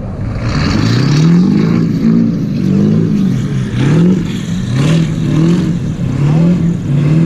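A car engine revved over and over in quick blips, its pitch rising and falling about eight times.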